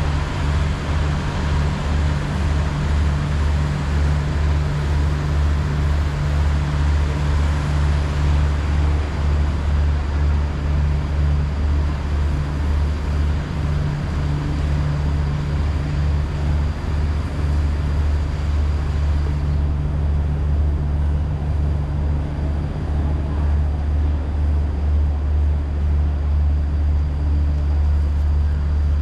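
Diesel train engine idling steadily, a deep unbroken hum.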